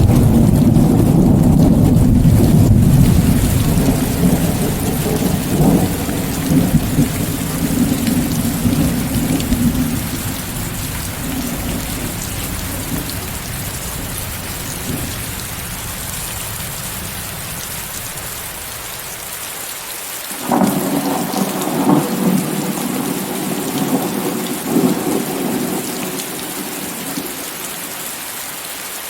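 Steady heavy rain with rolling thunder. A long, loud rumble at the start dies away over about ten seconds, and a second peal of thunder breaks about twenty seconds in and rumbles for several seconds before fading.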